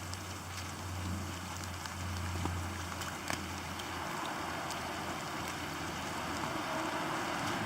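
Steady rain hiss with scattered drips ticking, over a low steady hum that fades about halfway through.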